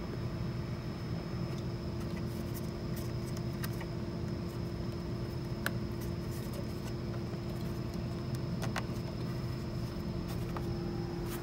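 A steady machine hum with a constant tone and a low rumble, with a few light clicks scattered through it.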